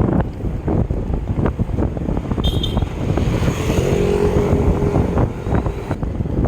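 Wind buffeting the microphone on a moving bicycle, a steady gusty rumble, with a motor vehicle's hum rising and fading as it passes about midway.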